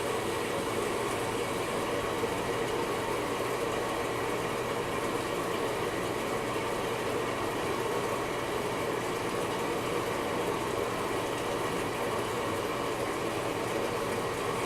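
Front-load washing machine running, a steady rushing noise with a low hum, during its test cycle after a control-board solder reflow.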